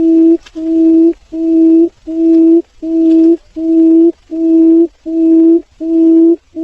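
Barred buttonquail giving its low hooting call: a long, steady series of evenly spaced, even-pitched hoots, about one every three-quarters of a second.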